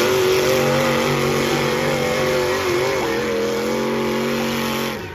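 Several demolition derby cars' engines running and revving at once, their pitches wavering and overlapping over a noisy din. The sound drops away suddenly near the end.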